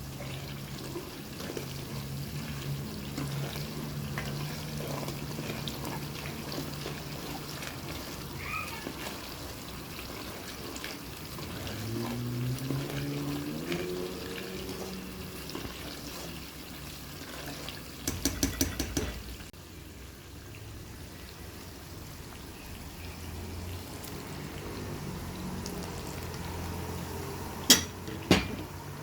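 Steady sizzle of ingredients frying in oil in a pan. About two-thirds of the way through there is a quick rattling run, and near the end two sharp knocks, like a utensil striking the pan.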